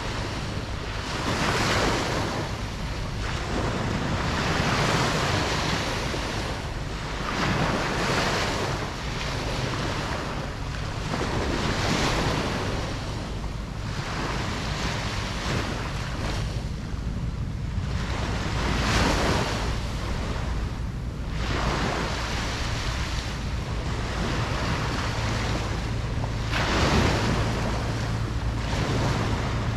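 Ocean surf washing onto a beach, each wave swelling and falling back every few seconds, over a steady low rumble.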